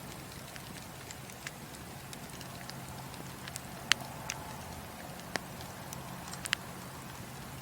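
Wood fire crackling in a fireplace: a steady soft hiss with scattered sharp pops and snaps, the loudest about four seconds in.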